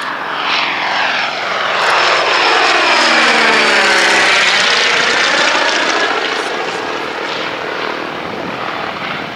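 Cessna 195's Jacobs seven-cylinder radial engine and propeller on a flyby pass, growing louder to a peak about four seconds in, then fading as the pitch drops while it goes by.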